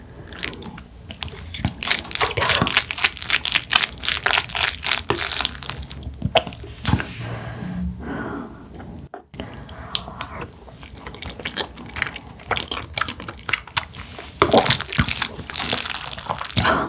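Close-miked chewing and eating: wet mouth sounds with many crisp clicks, broken by a brief dropout about nine seconds in.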